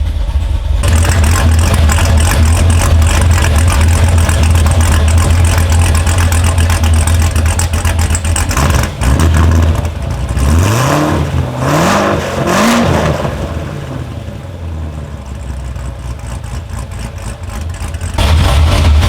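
The freshly built 6.2-litre LT1 V8 of a C7 Corvette, with a stage 1 Brian Tooley cam and catless headers, idling with a steady rumble. About ten seconds in it is revved in three quick blips, then drops back. The idle returns near the end. The cam's idle has not yet been tuned.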